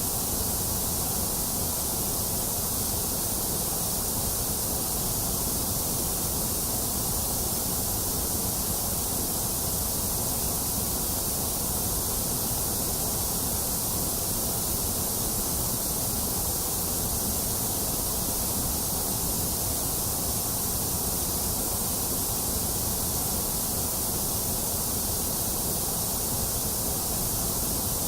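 Steady white noise: an even, unchanging hiss with a low rumble beneath it, thinner in the middle range than in the treble.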